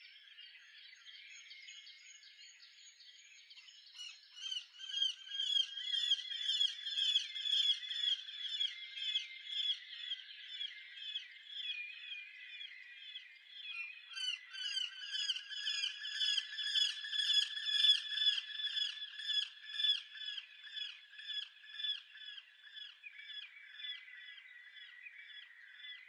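A bird at a garden feeder giving a long run of rapid, evenly repeated harsh calls, about four a second. The calls grow louder about four seconds in and fade toward the end.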